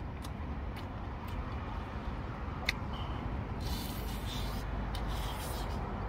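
A man chewing pizza, the wet chewing and crunching of the crust picked up close, over a steady low background rumble. One sharp click a little before three seconds in, and two brief crisp bursts around four and five seconds in.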